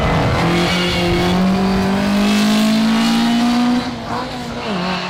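Ford Anglia 105E sprint car's engine, on Weber carburettors, pulling steadily up through the revs under load for about four seconds, then the revs fall away near the end.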